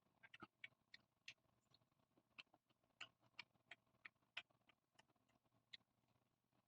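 Faint close-miked eating sounds: soft wet chewing and mouth clicks at an irregular pace, about two or three a second.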